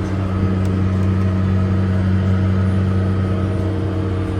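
Case 385 tractor's turbo diesel engine running at a steady drone under load while pulling the air seeder.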